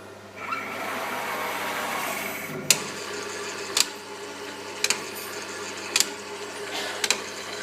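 ZPrinter 850 powder feeder running: a whirring for about two seconds, then sharp clicks about once a second over a steady machine hum. This is the feeder noise the owner treats as a problem.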